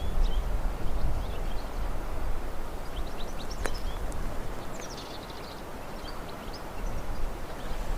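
Forest ambience: small birds giving scattered short high chirps, with a quick run of descending notes a little past halfway, over a steady rushing background with a low rumble that eases off after the first seconds.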